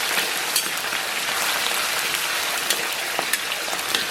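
Hot oil sizzling steadily in a wok as chilli bean paste, scallion and ginger fry, with scattered sharp crackles and pops.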